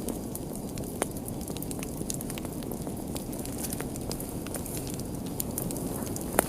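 Fire crackling: a steady low rumble of flames with scattered sharp pops and snaps, one louder pop about a second before the end.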